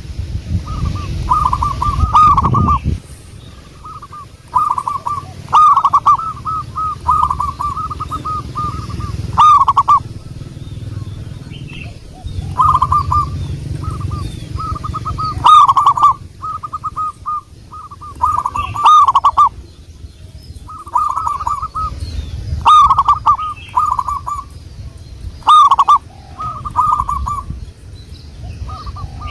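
Zebra dove (perkutut) cooing: repeated phrases of quick rolling coos, each phrase lasting one to two seconds with short pauses between, over a low rumble at times.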